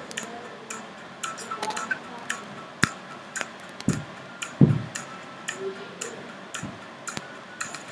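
Irregular light clicks and taps, some ringing briefly, with a few heavier dull thuds, as of kitchen utensils and cookware being handled during food preparation.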